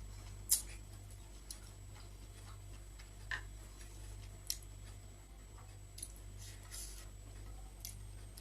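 Close-miked eating sounds: soft chewing with scattered small mouth clicks at uneven intervals, over a steady low hum.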